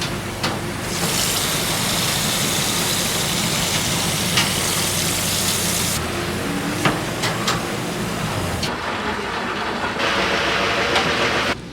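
Steady rushing noise with a low rumble, like vehicle or road noise, with a few faint clicks; its character changes abruptly several times.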